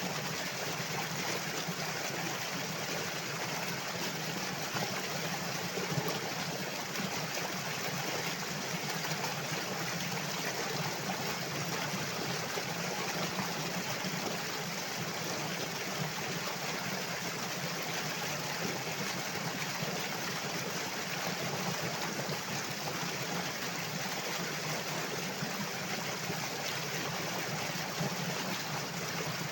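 Water flowing steadily, a continuous even rush of a stream.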